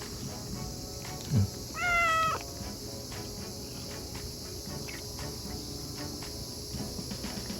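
A cat meows once, a short call about two seconds in, just after a brief low sound that falls in pitch.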